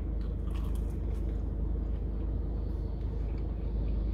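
A car's engine idling, heard from inside the cabin as a steady low rumble, with a few faint soft clicks of chewing.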